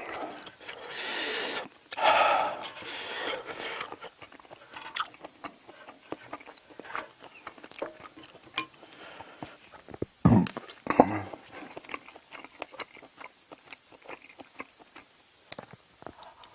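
Close-up mouth sounds of a person chewing spicy stir-fried octopus and rice, with many small wet clicks and crackles. There are two longer noisy rushes in the first few seconds and a louder burst about ten seconds in.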